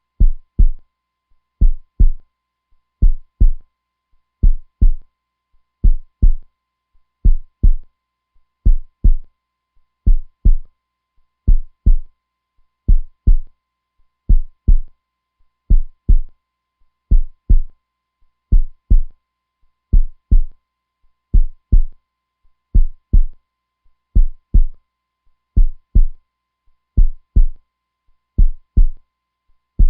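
Heartbeat sound: steady lub-dub pairs of deep thumps, about one beat every second and a half.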